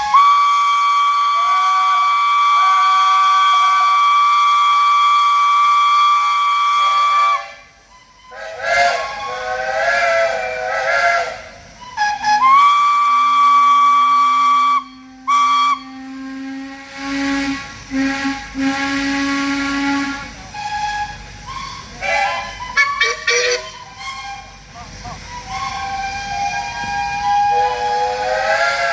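Steam engine whistles blowing in long blasts: a high, steady whistle held for about seven seconds, then several wavering whistles, another high blast with a lower-pitched whistle sounding under it, and fainter overlapping whistles towards the end.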